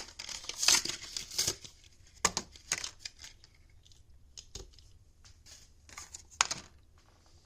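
Packaging being torn open and crinkled by hand: a quick run of tearing and rustling at the start, then scattered crinkles and one more sharp tear near the end.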